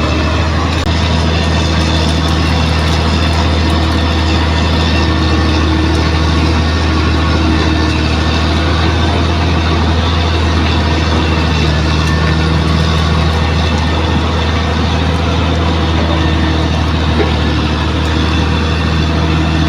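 Bulldozer's diesel engine running steadily with a deep, constant hum.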